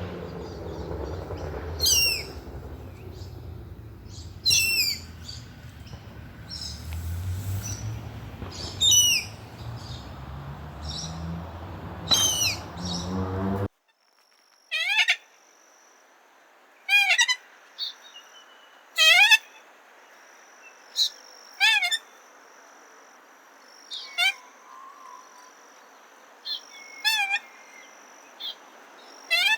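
Common moorhen calls: short, sharp notes that fall steeply in pitch, repeated every two seconds or so over a low background rumble. About 14 s in, the recording cuts to a quieter one in which similar falling calls come more often, over a faint high steady tone.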